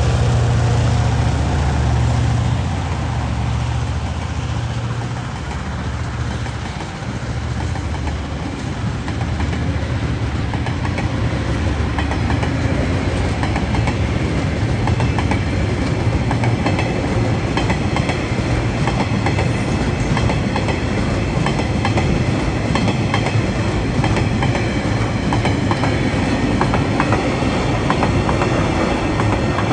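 Freight train passing: the two diesel locomotives at full throttle fade away over the first several seconds, then the wagons roll by with a steady clickety-clack of wheels over the rails and a low rumble.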